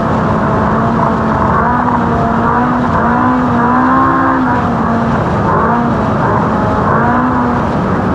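Ultra4 desert race car's engine running hard over rough ground, heard from inside the car, with a dense rumble of terrain and drivetrain noise. The engine pitch rises a little about three seconds in and settles back.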